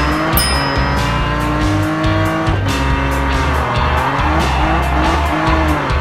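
Cartoon vehicle engine sound effect, its pitch rising and falling as it revs, over background music with a steady low beat.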